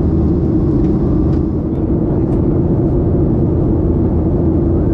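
Steady airliner cabin noise inside a Ryanair Boeing 737 in flight: the jet engines and airflow make an even drone with a constant hum.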